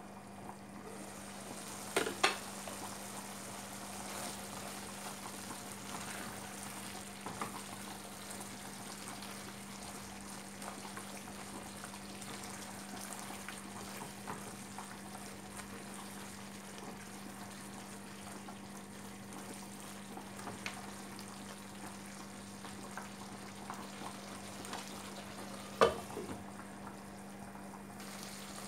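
Chicken pieces in a tomato-spice sauce sizzling in a frying pan and being stirred with a spatula, over a steady low hum. A pot lid clanks sharply about two seconds in and again near the end.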